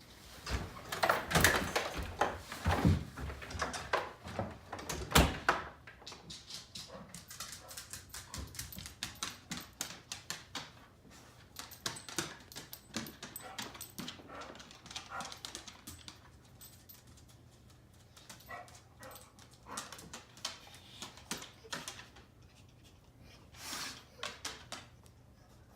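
A pit bull moving about and making short vocal noises, with a run of loud knocks and thumps in the first six seconds, then many quick light ticks.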